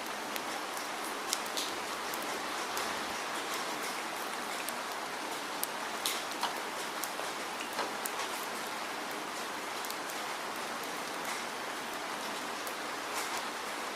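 Steady rainfall: an even hiss of rain with scattered distinct drops ticking on a surface.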